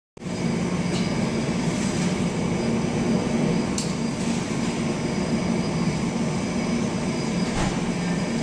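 Steady rumble of a vehicle in motion, with a brief high hiss about four seconds in.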